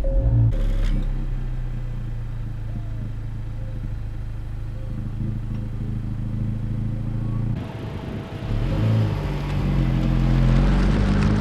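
2024 Acura Integra Type S's 2.0-litre turbocharged K20C1 four-cylinder catching on a cold start through the stock exhaust, flaring briefly and then settling into a steady idle. About nine seconds in the pitch rises briefly, and the note is louder toward the end.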